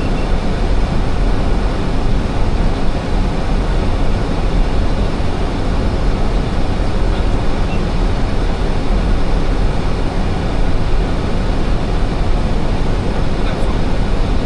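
Steady rushing noise inside an Airbus A320 cockpit in flight, from the airflow around the aircraft and its engines, even and unbroken.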